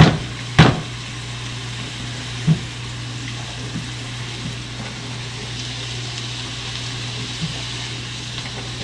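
Chopped apple and onion sautéing in a skillet: a steady frying sizzle, with a few light knocks as a wooden spoon stirs the pan. A steady low hum runs underneath.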